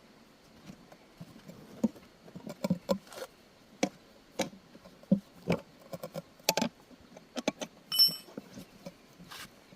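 Hand tools and metal parts being handled during a tire and inner-tube repair: irregular clicks and knocks, with one brief ringing metal clink about eight seconds in.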